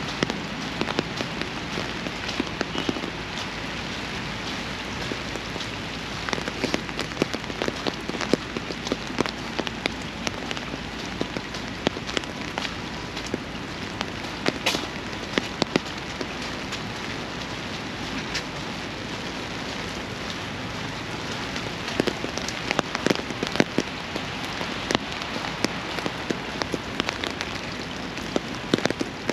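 Steady rain falling, with many sharp close drops and taps standing out above the hiss. The taps come thicker about six to ten seconds in and again after about twenty-two seconds.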